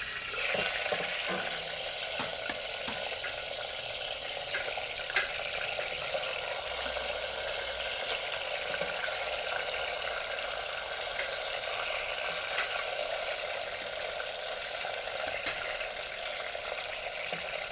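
Food frying in hot oil: a steady sizzle with scattered small pops and crackles.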